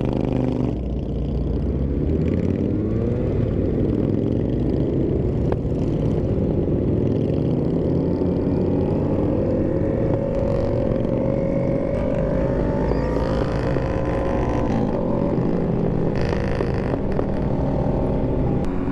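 Motorcycle engine under way, climbing in pitch as it pulls through the gears. It drops back at each shift, with a long steady pull through the middle.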